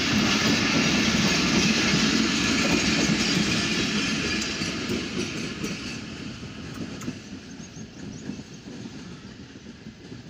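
Passenger train coaches rolling past on the rails, wheels clattering, loud at first and then fading steadily from about four seconds in as the last coach goes by and the train pulls away.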